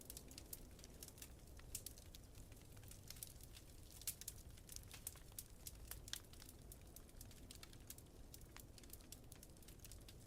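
Wood fire crackling in a fireplace: irregular sharp pops and snaps, several a second, over a faint low steady rumble.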